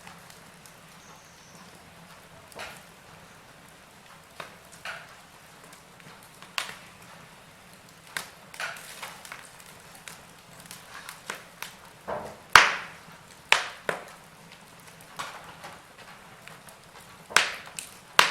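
Wood fire burning, with irregular sharp crackles and pops over a low steady hiss.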